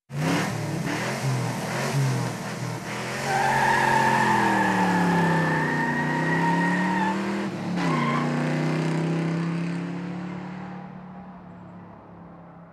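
A car engine revving, its pitch rising and falling, with a high steady squeal over it from about three to seven seconds in. The sound fades out over the last few seconds.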